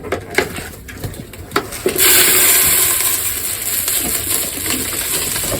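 A few clicks and knocks, then about two seconds in a steady rushing hiss of bird feed grain being poured into a pigeon feeder.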